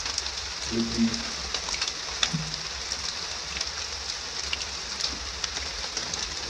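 Steady rain hiss with scattered sharp ticks of single drops striking close by. Brief faint low voice-like sounds come about a second and two and a half seconds in.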